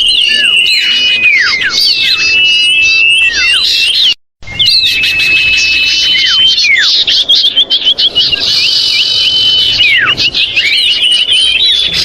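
Common iora (cipoh) calls played as a bird lure: dense, agitated calling of several overlapping birds, with long steady whistles, falling notes and quick chattering runs. The sound drops out completely for a moment about four seconds in, then carries on.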